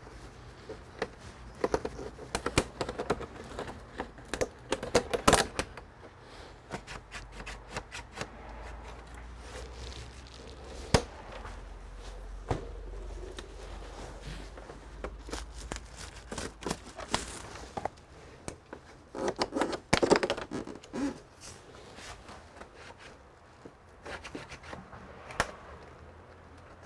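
Plastic pry tool working the seams of an all-in-one computer's plastic case: an irregular run of clicks, taps and snaps as the case clips are worked loose, with a few louder knocks.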